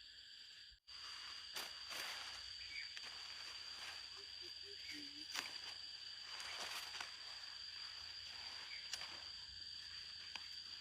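Rural outdoor ambience: a steady high-pitched insect drone, with scattered light clicks and taps.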